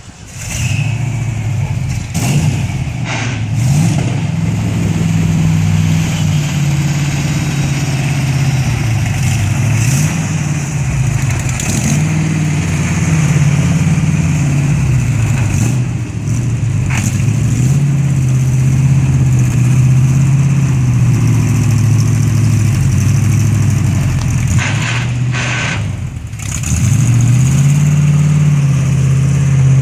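Ford 360 V8 breathing through a Holley double-pumper carburetor, Hooker headers and Thrush glasspack mufflers, catching right at the start and then revved up and down in several slow swells between idles. The engine has only just been got running again after sitting for two years.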